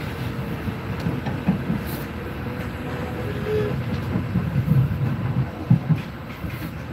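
Passenger train running along the track, heard from inside the carriage: a steady low rumble of the wheels on the rails with irregular knocks.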